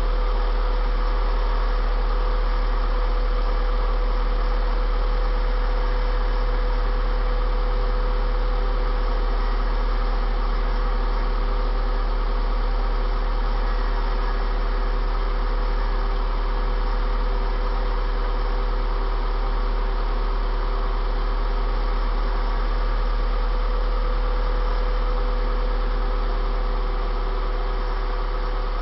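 Hyundai Tiburon's four-cylinder engine idling steadily through a newly fitted 4-1 exhaust header, shortly after its first start-up with the new header.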